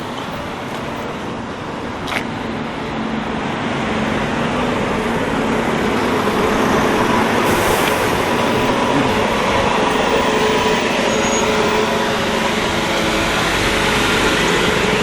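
Road traffic noise from motor vehicles, swelling over the first few seconds and then holding steady, with a faint engine hum running through it.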